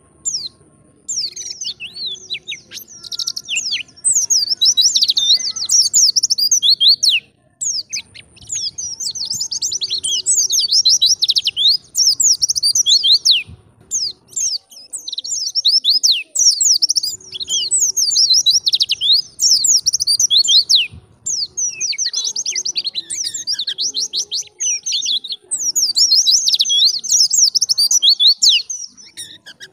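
White-eye (pleci) singing in fast, high-pitched twittering phrases several seconds long, broken by short pauses.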